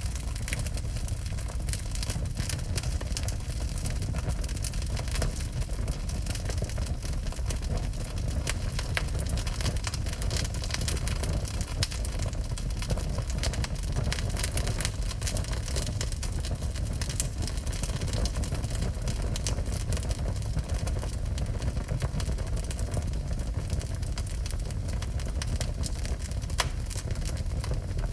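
Wood fire burning in a fireplace: a steady low rumble of flames with frequent small crackles and pops from the burning wood.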